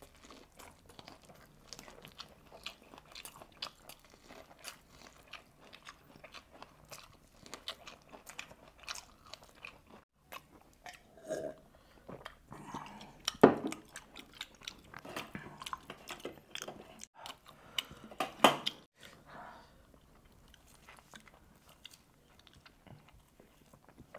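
Close-up mouth sounds of spicy whole roast chicken being bitten and chewed by hand: many small wet clicks, with a few louder brief sounds in the second half.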